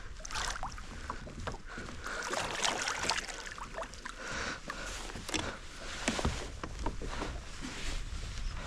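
Water splashing and sloshing around a kayak, with scattered short clicks and knocks, over a steady low wind rumble on the microphone.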